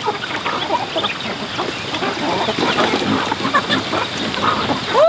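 A flock of poultry calling: many short, overlapping clucks and peeps, with one louder call that rises and falls in pitch right at the end.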